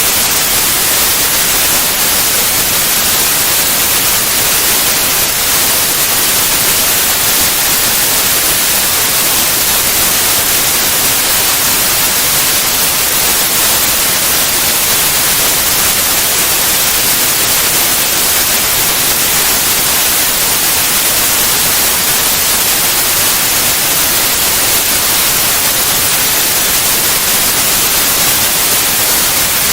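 Steady, loud white noise: an even hiss across all pitches, brightest in the highs, with no change in level.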